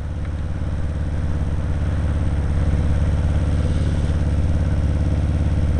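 Kawasaki KZ750 motorcycle engine running steadily.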